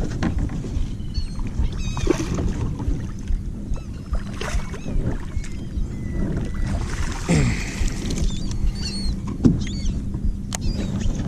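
Water sloshing and splashing around a fishing kayak, with scattered short, high chirping bird calls from the flock working over the fish.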